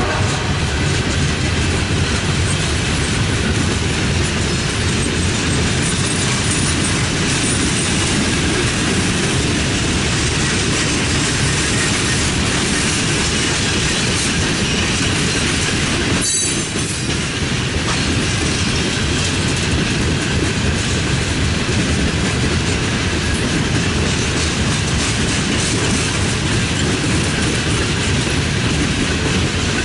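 Loaded coal hopper cars of a freight train rolling past, a steady rumble and clatter of steel wheels on the rails, with one brief dip in loudness a little past the middle.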